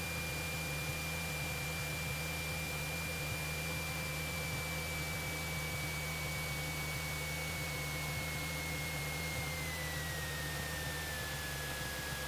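Cessna 172SP cockpit noise: a steady engine and propeller drone under an even hiss, with a thin high whine that slides down in pitch near the end.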